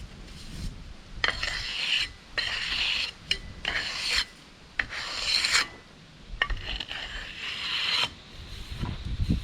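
Repeated scraping strokes of a hand tool across wet Quikrete concrete mix, smoothing the fill level with the rim. There are about five strokes with short pauses between, the last one the longest.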